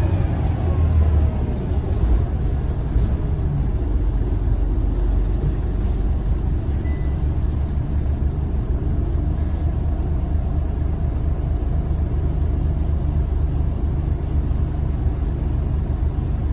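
Scania L94UB single-deck bus's diesel engine running with a steady low rumble, a whine falling in pitch as it slows in the first second or so.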